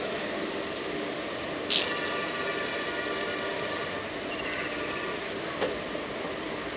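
Indian Railways passenger coaches rolling slowly past on the track, a steady rumble of wheels on rail. Two sharp knocks stand out, one about two seconds in, followed by a brief ringing, and one near the end.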